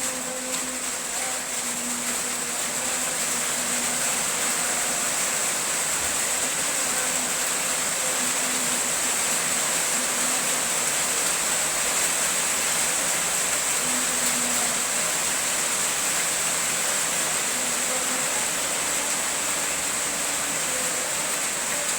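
Rain falling steadily, a constant even hiss, with a steady high-pitched ringing above it and faint low tones coming and going.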